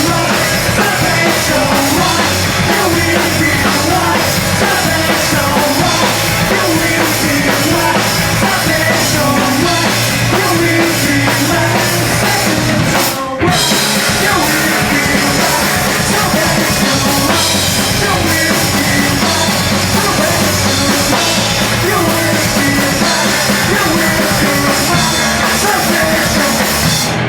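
Live punk-hardcore band playing at full volume, with distorted guitars and pounding drums. The band cuts out for a split second about halfway through, then comes straight back in.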